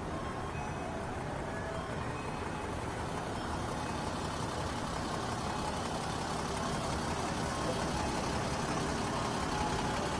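Steady hiss and hum at a teppanyaki griddle: food sizzling on the hot iron plate over the drone of the extractor hood, growing slightly louder about halfway through.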